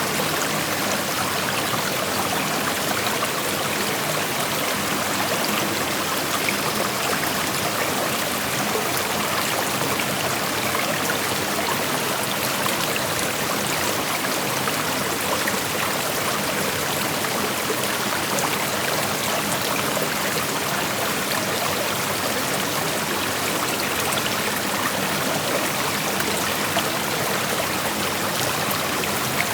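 Creek water flowing and rushing over stones, a steady even rush with fine trickling.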